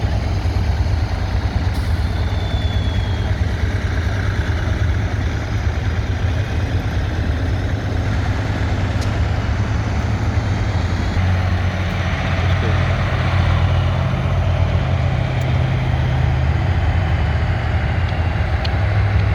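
Trial truck's diesel engine running, a loud low drone that grows stronger about eleven seconds in.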